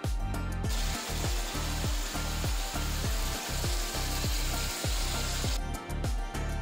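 Chicken and cauliflower curry sizzling in a pan, a steady hiss that starts about a second in and stops shortly before the end. Background music with a steady beat plays throughout.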